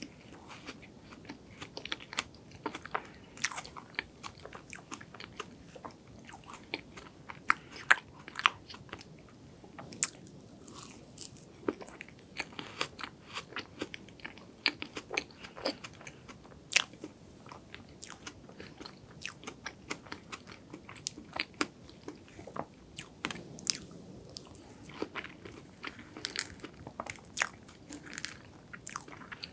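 Close-miked chewing of chocolate cake, with many short, sharp mouth clicks and smacks throughout.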